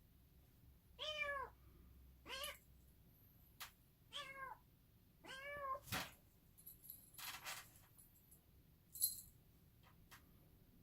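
Bengal kitten meowing four times, short calls that rise and fall in pitch, with a few sharp clicks in between, the loudest near the end.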